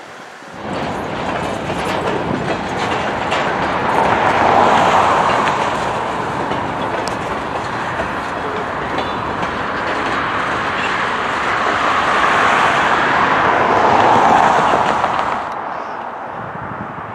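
Freight train's covered hopper cars rolling past close by: a steady rumble of steel wheels on the rails with occasional sharp clacks, swelling twice as cars go by. Near the end it drops abruptly to a fainter sound.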